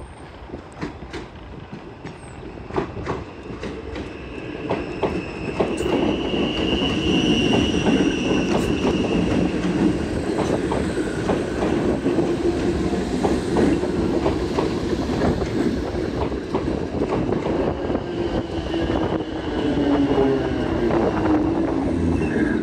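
Linke-Hofmann-Busch DART electric train passing close by: sharp clicks of wheels over rail joints, building to a loud steady rumble about five seconds in, with a high wheel squeal and a falling whine near the end.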